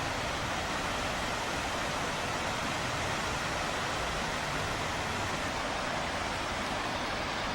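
Steady rush of river water flowing, an even hiss with no separate splashes or calls.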